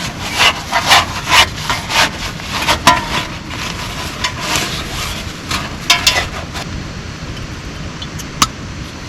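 Steady rain. Over it, a quick run of scraping strokes comes two to three a second for the first three seconds, then a few scattered scrapes and a sharp click later on.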